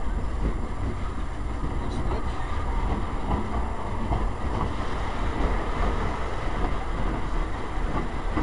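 Railroad caboose rolling along the track, heard from its open end platform: a steady low rumble of wheels on rail, with a faint click about two seconds in.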